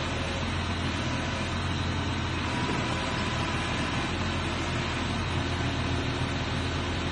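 Truck-mounted crane running under test: its engine and hydraulics give a steady low drone with a faint high steady tone above it, unchanging throughout.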